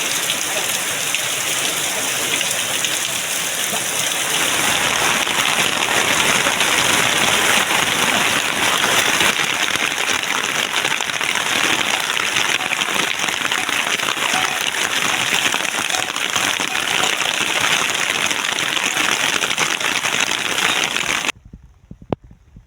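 Rain pouring down in a steady hiss, growing louder about four seconds in and cutting off abruptly near the end.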